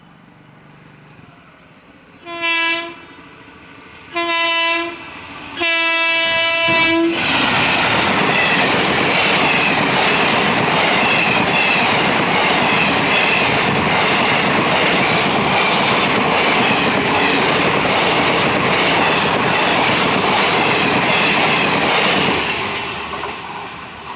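Express passenger train's locomotive horn sounds three blasts, the last one longest, as the train approaches. The train then passes close at speed for about fifteen seconds, coaches' wheels clattering over the rail joints in a steady rhythm, and fades away near the end.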